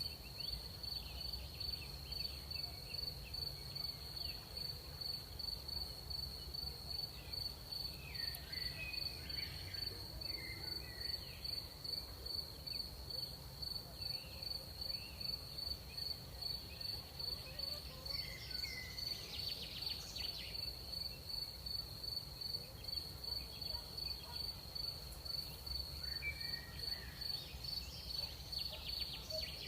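Crickets chirping at night in a steady, even pulse, about two or three chirps a second. Faint short calls of another creature come and go a few times behind them.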